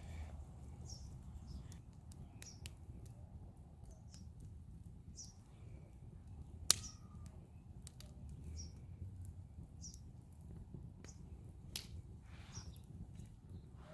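Bird feeder burning in a fire pit, crackling with scattered small pops and one sharp, loud pop about seven seconds in. Birds chirp faintly now and then.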